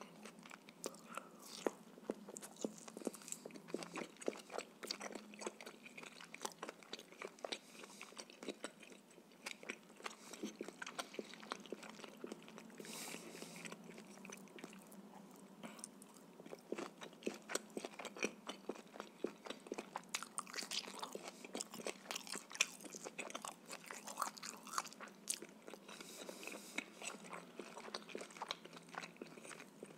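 Close-miked chewing of pieces of shashlik (grilled skewered meat), with a dense run of small wet clicks and smacks of the mouth.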